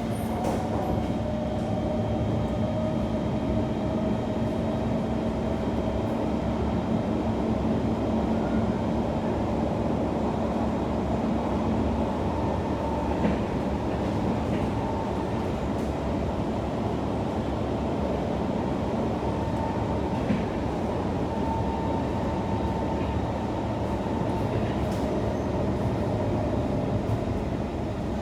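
Kawasaki C151 metro train running between stations, heard from inside the car: a steady rumble of wheels and motors, with a low hum that stops about twelve seconds in and a few faint clicks.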